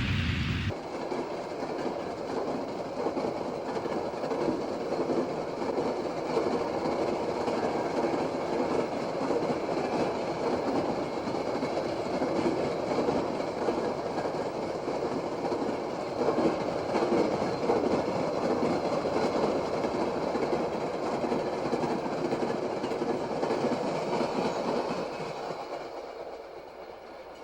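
A train rolling past on the rails, a steady rumble and clatter of wheels on track that cuts in abruptly about a second in and fades away near the end.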